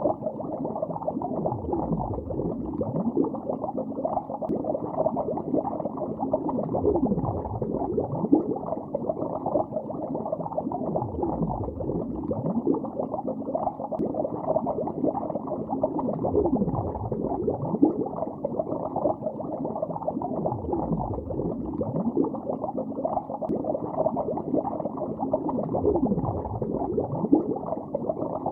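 Continuous bubbling heard underwater, muffled and low-pitched, with slow downward swooshes every two to three seconds.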